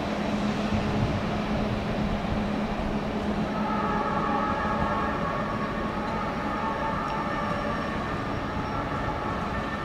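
Electric passenger trains moving off through the station: a steady rumble of wheels on track with a low hum. From about three and a half seconds in, a whine of several steady high tones joins in.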